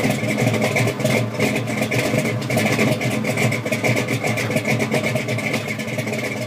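Modern GM muscle car V8 engine running steadily.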